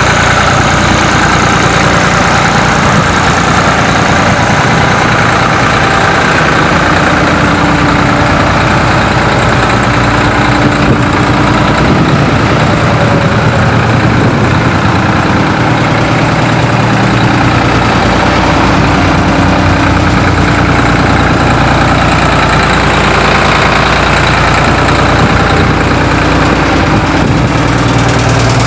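Ford tractor engine running steadily with a sod harvester, in good running order; a deeper low rumble sets in a little past halfway.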